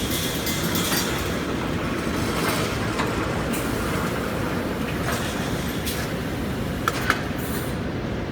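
Automatic wire mesh panel welding machine running steadily: a loud mechanical rumble with rattling clatter and occasional clicks. Two sharp ticks come close together about seven seconds in.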